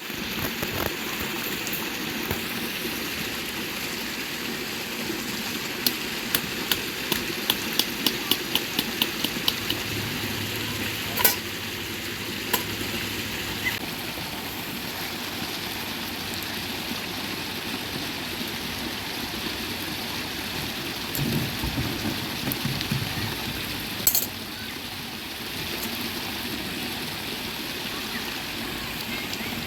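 Hot oil sizzling as food fries in a tin can over a campfire, a steady crackling hiss. About six seconds in come a run of quick light ticks, roughly two or three a second, and later a few single sharper knocks, like a utensil against the can.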